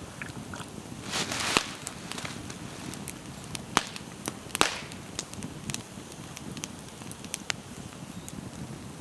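Campfire crackling with a steady low hiss and scattered sharp wood pops.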